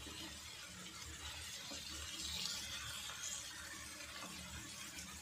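Stuffed bitter gourds and onion masala sizzling softly in a nonstick frying pan as they are turned with a metal spatula, with a couple of light scrapes.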